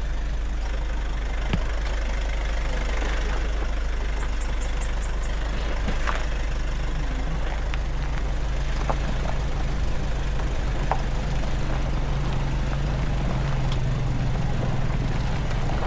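Nissan Navara pickup's engine running steadily on a downhill descent, with a low steady drone growing stronger from about halfway through. A few sharp clicks and knocks, and a quick run of six high ticks about four seconds in.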